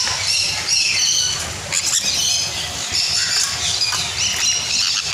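Many caged birds squawking and chirping at once, a dense, continuous chorus of short high calls.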